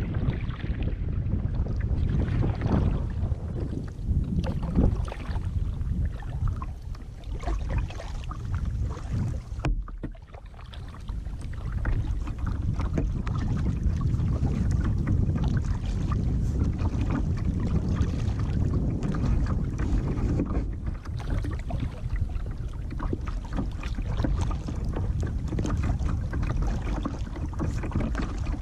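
Water splashing and lapping around a moving kayak, over a steady low rumble of wind on a GoPro's microphone; it drops briefly about ten seconds in.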